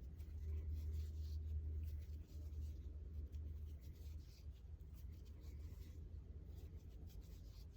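Faint rustling and scratching of a crochet hook working acrylic yarn, with small irregular ticks over a low steady hum.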